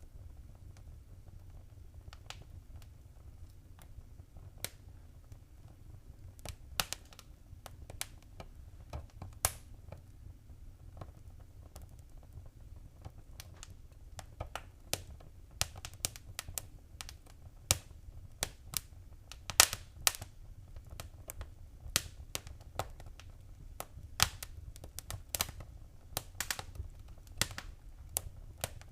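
Wood fire crackling: irregular sharp pops and snaps over a low, steady rumble, with the pops coming more often in the second half.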